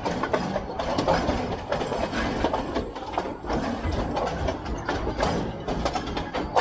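Narrow-gauge diesel train running: a steady low rumble with frequent, irregular rattles and knocks from the carriage and track.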